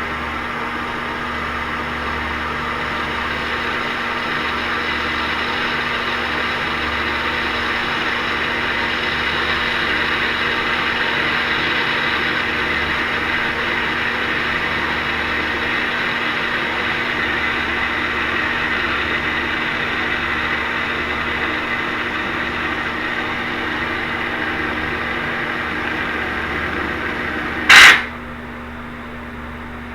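A small motor running steadily with a whirring hiss, then a single loud click near the end as the sound drops away.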